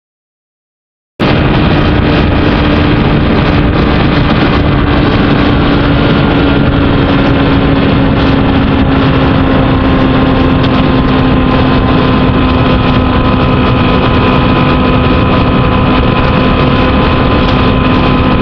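Kawasaki GPZ900R's inline-four engine running at a steady speed, its note holding level and sinking very slightly, with wind rushing over the microphone. The sound cuts in abruptly about a second in, after silence.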